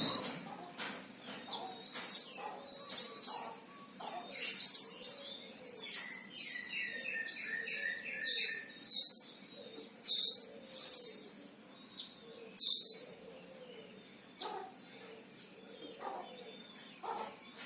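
A caged songbird sold as a 'mantenan Himalaya' singing in quick, high, sweeping chirp phrases with short pauses between them. A run of lower, evenly repeated notes comes in the middle. It is the long song that bird keepers use as tutor material, and the singing fades to a few faint calls near the end.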